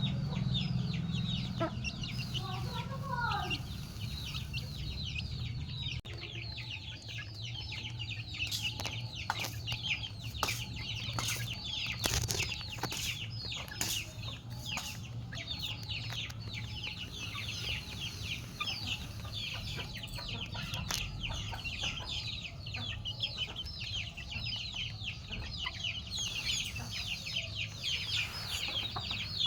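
Chickens: a dense, continuous chatter of quick, high downward chirps, with a few lower clucking calls in the first few seconds. Scattered sharp clicks come through mostly in the middle stretch.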